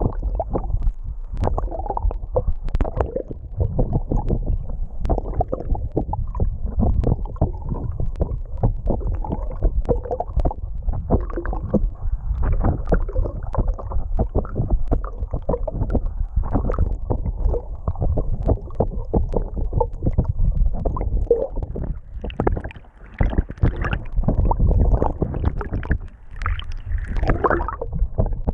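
Muffled, continuous churning and gurgling of water heard through an underwater camera, with many small irregular knocks.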